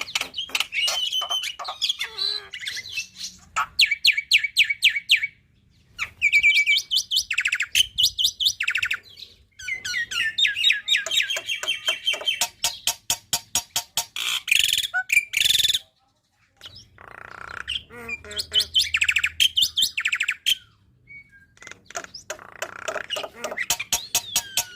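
Black-winged myna (jalak putih) singing a loud, varied song of rapid runs of sharp repeated notes and trills, packed with phrases mimicked from other birds. Short pauses break the song, with a stop of about a second two-thirds of the way through.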